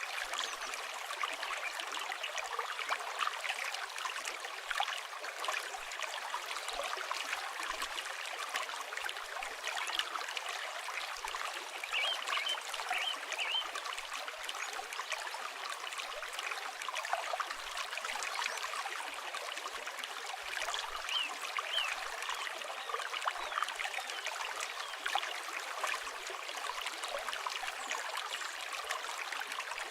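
River water flowing and burbling over stones in a steady rush. A bird gives a few short high chirps about twelve seconds in and again around twenty-one seconds.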